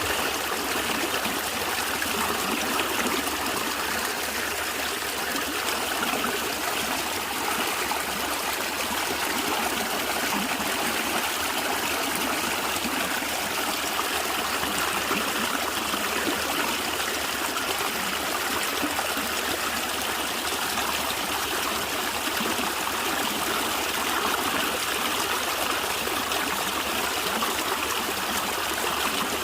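A small stream of water gurgling and trickling steadily.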